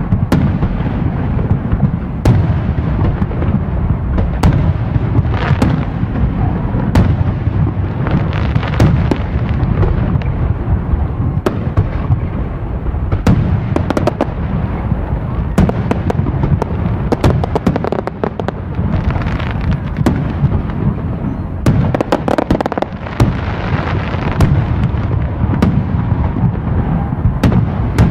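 Bonfire Night fireworks display: a dense, continuous rumble of booming bursts, with sharp cracks about every second and runs of rapid crackling.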